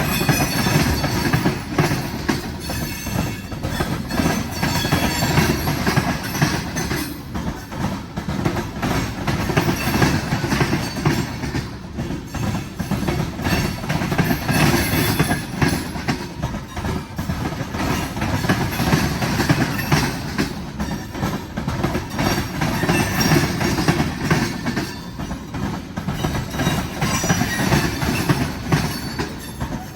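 Freight cars of a long train, mostly tank cars, rolling steadily past. Their steel wheels give a continuous low rumble on the rails, with rapid clicking and clacking over the rail joints.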